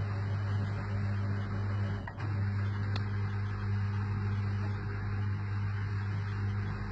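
Beko/Arçelik washing machine running a component in its test mode, giving a steady electrical hum, with a brief click and dip about two seconds in.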